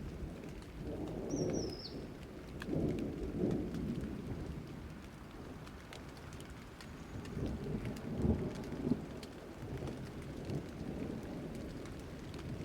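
Steady rain falling, with low rolling thunder that swells several times, strongest about a second in, around three seconds in and near eight seconds.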